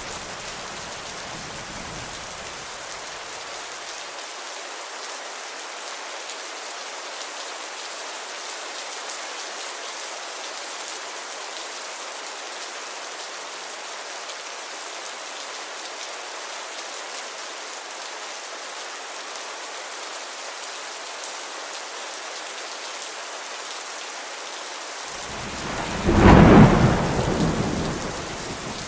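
Steady rainfall, an even hiss. A low thunder rumble fades out over the first few seconds, and near the end a loud roll of thunder builds, peaks and dies away over about three seconds.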